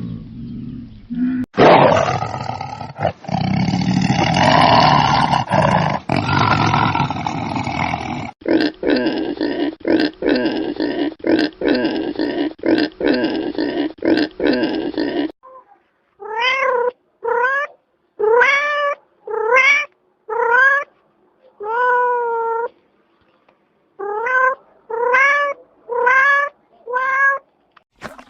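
A run of different animal calls edited back to back. First comes a loud, rough stretch of calling, then a fast pulsing call. Last comes a series of about ten short, high calls, each rising and then falling in pitch.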